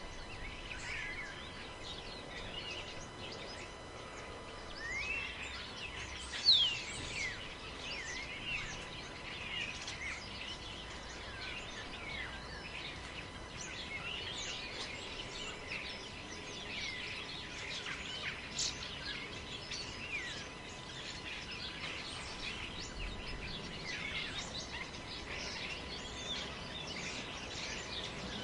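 Forest ambience: many small birds chirping and calling over one another, with one louder call about six and a half seconds in, over a low steady rush of wind.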